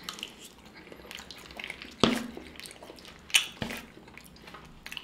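Close-miked eating sounds: wet chewing and mouth smacks, with a few sharp clicks, the loudest about two and three and a half seconds in.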